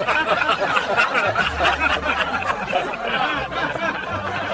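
Several people laughing and chuckling together, a steady mass of overlapping laughter.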